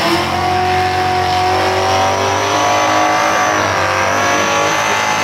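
Supercharged LS V8 of a Holden Commodore held at high revs during a burnout, its rear tyres spinning in smoke. The engine note holds steady, with a brief dip right at the start and a slight drop in pitch about four seconds in.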